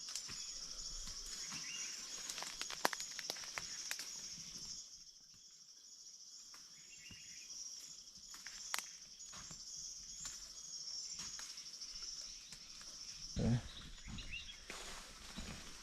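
Steady outdoor insect chorus, a continuous high-pitched buzzing, with scattered light clicks and rustles and a brief voice-like sound near the end.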